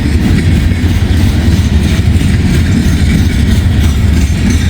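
Freight train cars rolling past close by: a loud, steady low rumble of wheels on rail.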